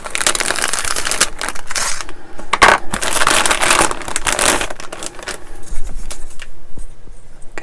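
Crinkling and crackling of the clear plastic bag around a model kit's parts sprue as it is handled, dense for the first four or five seconds, then a few quieter crackles.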